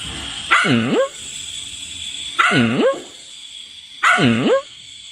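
A dog giving three short, pitched calls about two seconds apart, each dipping in pitch and then rising.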